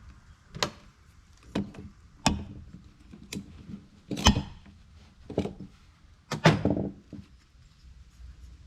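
Scattered clicks and knocks of small parts and hand tools being handled and set down on a workbench during reassembly, about seven separate knocks with the loudest about four and six and a half seconds in.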